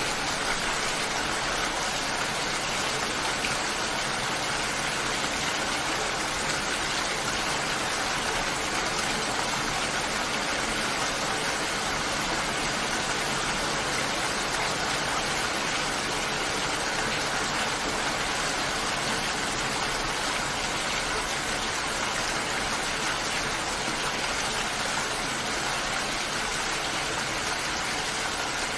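Steady rainfall, an even, unbroken rush of water with no change in level.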